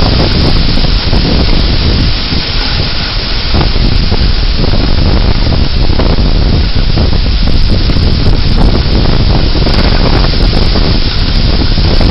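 Damaging severe-thunderstorm winds blowing hard, a loud continuous rushing noise with wind buffeting the microphone.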